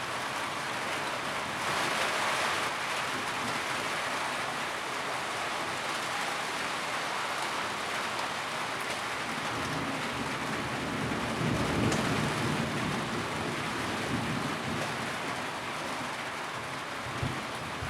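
Rain pattering densely and steadily on a tin roof, with a low rumble swelling up around the middle.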